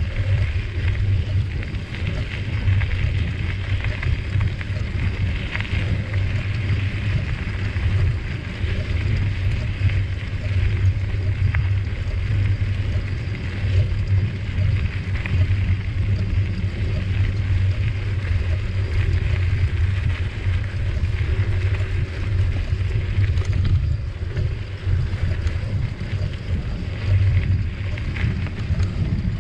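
Steady low rumble of wind buffeting the microphone while riding a bicycle, with a gritty hiss of the tyres rolling over the trail.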